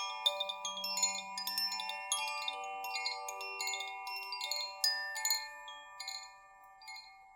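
Chimes tinkling in many quick light strikes over sustained ringing tones, dying away near the end.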